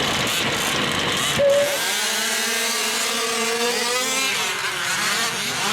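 Small two-stroke gas engines of 1/5-scale RC off-road trucks buzzing and revving, their pitch rising and falling.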